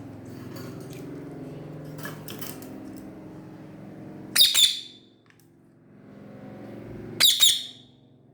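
Ringneck parrot (rose-ringed parakeet) giving two short, shrill squawks about three seconds apart, over a fainter low hum.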